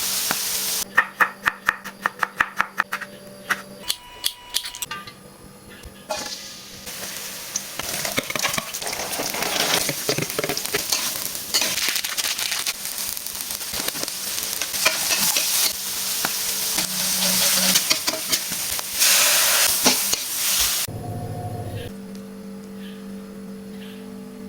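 A knife chopping on a cutting board at about four strokes a second, then a loud sizzle of long beans being stir-fried in a hot pan with stirring, which dies down near the end.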